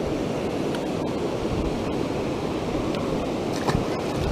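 Waterfall rushing steadily, with a couple of brief knocks about three and a half seconds in.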